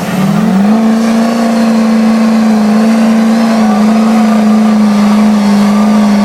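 Truck engine revved to high rpm and held there under full load as the truck strains against another truck in a tug-of-war pull. It climbs sharply in pitch about half a second in, then holds a loud, steady drone.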